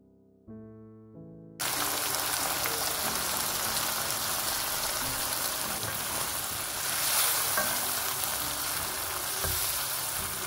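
A few soft music notes, then, from about a second and a half in, a steady sizzle of blended tomato frying in hot oil in a pan, stirred with a wooden spoon.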